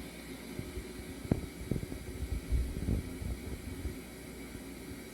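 Steady hiss of a running aquarium, like the water and air of a filter or bubbler, with a few low thumps and knocks between about one and three and a half seconds in.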